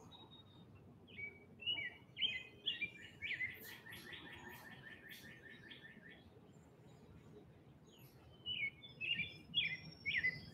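A songbird singing: a run of chirps that turns into a fast, even trill, then another burst of chirps near the end.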